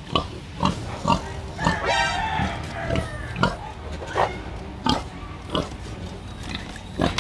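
Pig grunting in short sharp calls, about one or two a second, with a longer squeal about two seconds in.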